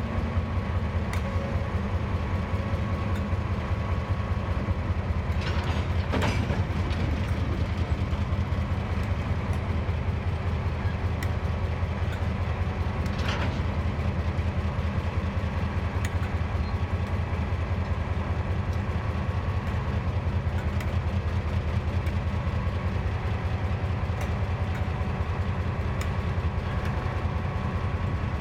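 Diesel-electric locomotives running at low power with a steady, deep engine drone. Two brief sharp metallic sounds come through, about six and thirteen seconds in.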